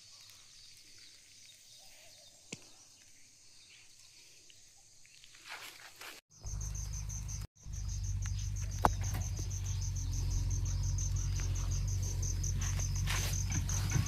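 Crickets or other insects chirping in a rapid, even pulse, joined about six seconds in by a steady low rumble.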